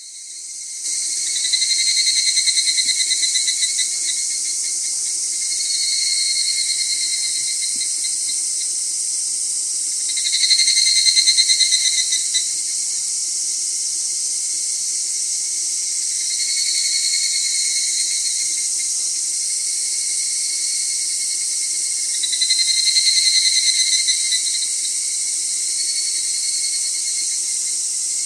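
Summer insect chorus: a steady high shrill of many insects, over which one insect's louder pulsed trill comes and goes six times, each about two seconds long, every few seconds.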